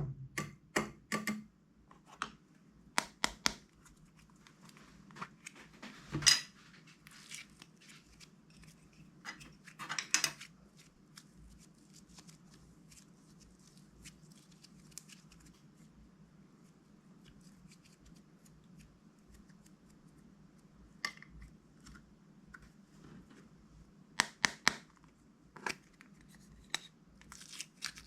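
Plastic slime bags being cut and handled: sharp snips and crinkles in short clusters, with a long quieter stretch in the middle.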